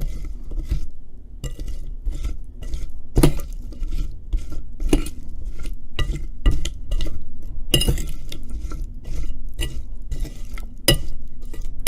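A utensil repeatedly clinking and scraping against a dish while tossing oiled potato fries with seasoning, in irregular strokes a few tenths of a second apart.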